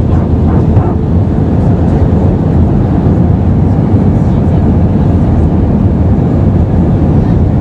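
Steady cabin noise of an Airbus A320-214 in flight: an even, loud rumble of its CFM56 turbofan engines and the airflow around the fuselage.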